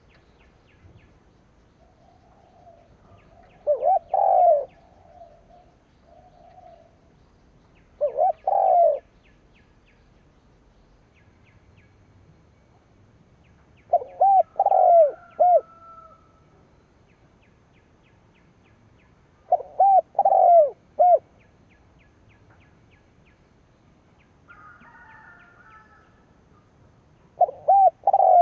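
Spotted dove (cu gáy) decoy cooing: five phrases of two to four low, rounded coos each, spaced several seconds apart.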